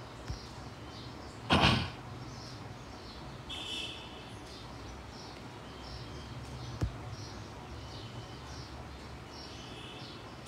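Quiet room tone with faint, high bird-like chirps repeating about twice a second, broken by one short loud rush of noise about a second and a half in and a single click near the seven-second mark.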